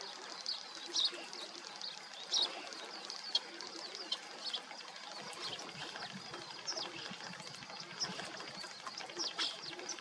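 Eurasian penduline tits giving many short, thin, high calls that fall in pitch, scattered irregularly, over the steady rush of running river water. A faint steady high tone runs underneath.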